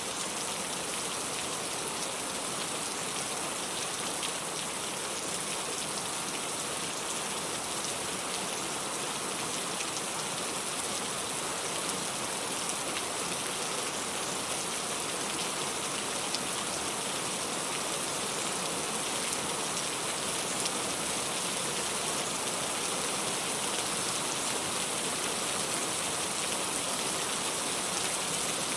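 Steady rain falling: an even, unbroken hiss with scattered faint drop ticks, used as pink-noise-like sleep sound.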